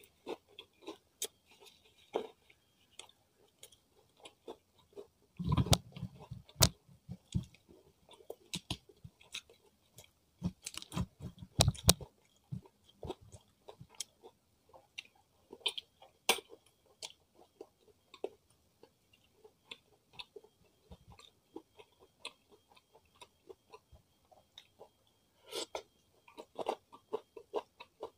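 Close-miked chewing of fried chicken: a continuous run of short wet clicks and smacks, with louder, denser bursts of chewing about five to seven seconds in and again around eleven seconds.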